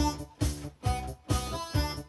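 Yamaha Electone electronic organ playing a pop tune: short, punchy chord stabs over a bass line and drum rhythm, about two hits a second.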